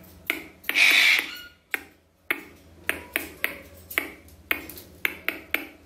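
Sharp clicks repeated in a rough beat, about three a second, keeping time for a dancing parrot, with a short hissing burst about a second in.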